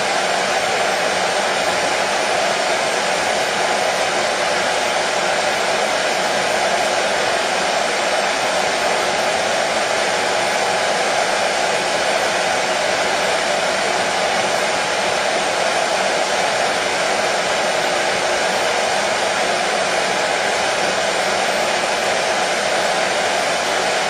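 Hair dryer running steadily: an even, unbroken blowing hum with no change in pitch or level, used as soothing white noise for colicky babies.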